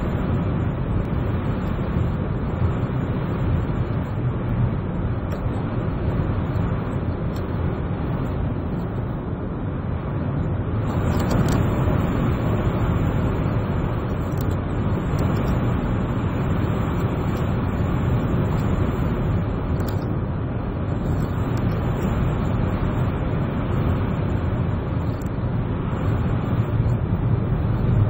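Blizzard wind blowing steadily and rumbling on the microphone, gusting a little stronger about eleven seconds in.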